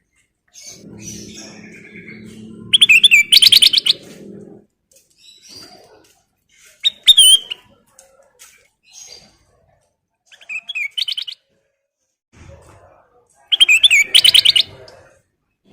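Kutilang emas bulbul singing in four loud bursts of rapid, high whistled trills separated by pauses. A low steady hum runs under the first few seconds.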